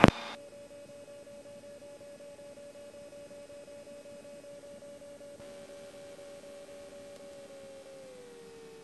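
Faint steady whine on the light aircraft's cockpit intercom feed, with a second, lower tone joining about halfway through and the main tone dropping in pitch near the end.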